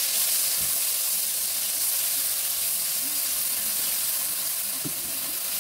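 Ground spice paste sizzling steadily as it is sautéed in hot oil in a wok, stirred around with a wooden spatula.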